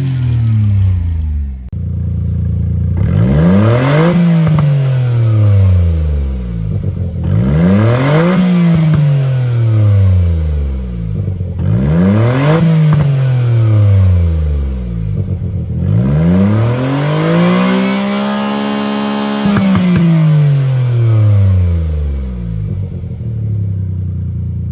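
Suzuki K6A 660 cc three-cylinder turbo engine being revved: four throttle blips, each rising and falling back to idle, the last held at high revs for about three seconds before dropping.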